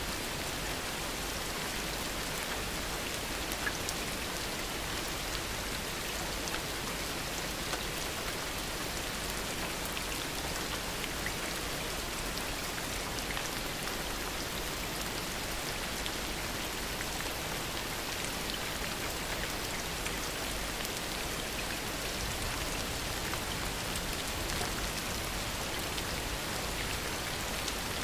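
Steady heavy rain falling, an even hiss with scattered individual drops pattering, with no thunder.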